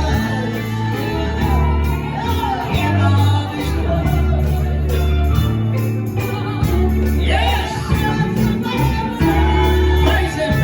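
Live gospel music: voices singing over a band with held bass notes and a jingling tambourine.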